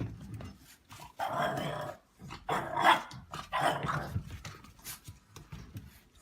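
A dog vocalising in several short bursts, starting about a second in.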